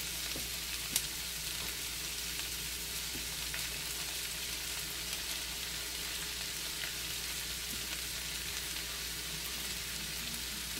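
Onions and shredded cabbage sizzling steadily in a hot cast iron skillet, with a single sharp click about a second in.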